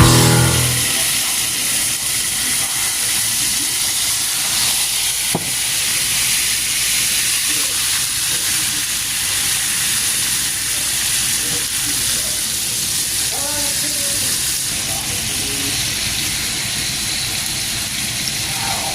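Food sizzling steadily in a hot frying pan, with a single sharp click about five seconds in.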